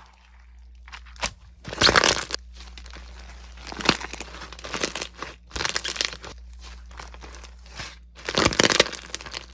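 Hands squeezing and pressing crunchy slime, giving a series of irregular crackling, crunching squishes.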